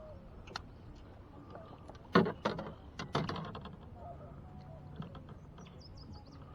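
Kayak paddle strokes: a cluster of sharp splashes and knocks about two to three seconds in, over quiet river ambience. A small bird chirps faintly near the end.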